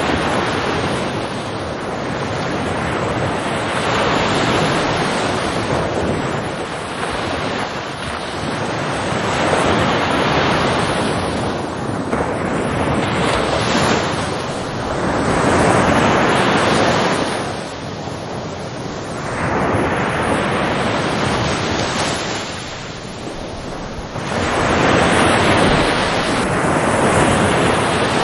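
Ocean waves breaking and washing ashore in a steady roar that swells and falls back every three to five seconds, with some wind on the microphone.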